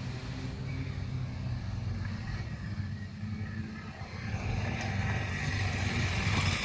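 Motorcycle engine running at low revs, getting louder over the last two seconds, then revving up sharply at the very end.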